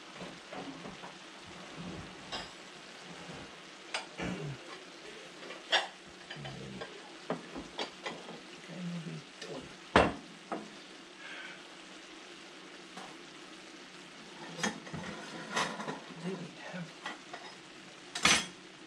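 Food sizzling steadily in a large skillet of vegetable-and-meat hash, with bowls and plates clinking and knocking as they are handled. The loudest clinks come about ten seconds in and again near the end.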